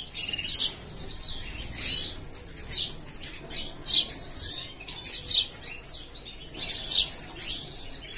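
Small bird chirping: short, sharp, high-pitched calls repeated about once or twice a second.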